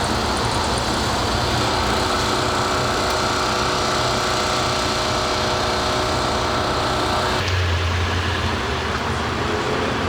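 Steady traffic and vehicle engine noise, with a few even engine tones over the rush. About seven and a half seconds in the sound changes abruptly: the hiss drops away and a deeper engine hum takes over.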